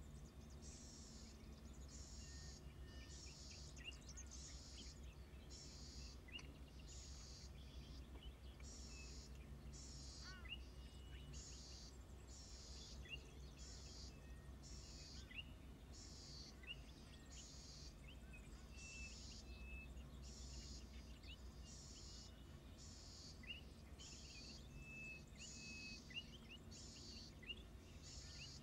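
Faint outdoor ambience: scattered brief chirps and whistles of small birds over an evenly repeating high buzz that pulses a little more than once a second, with a low steady rumble underneath. No raven calls are heard.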